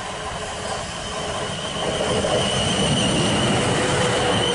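South Western Railway passenger train running along the platform, getting louder as it comes up alongside. A steady high whine and a lower tone ride over the rumble of the wheels on the rails.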